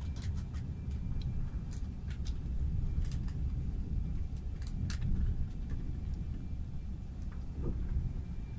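Inside a moving ICE train: the steady low rumble of the running train, with scattered light clicks and ticks.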